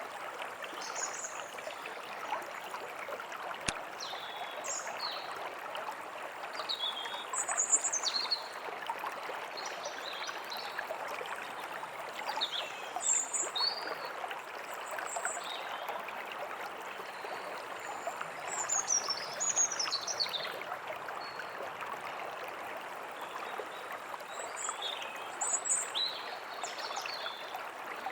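A small stream running steadily, with birds chirping and calling over it at intervals. There is a single sharp click about four seconds in.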